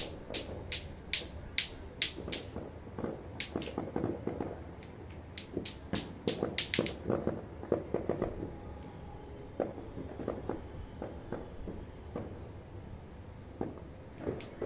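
A cricket chirping in a steady, evenly pulsed trill that stops about five seconds in and resumes about ten seconds in. Irregular sharp clicks and pops sound over it.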